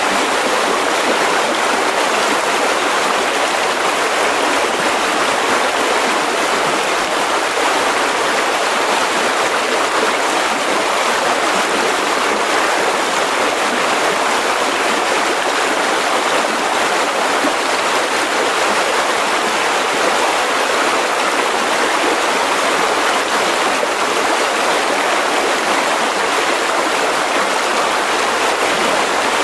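Mountain river rushing over rocks, a steady unbroken roar of flowing water.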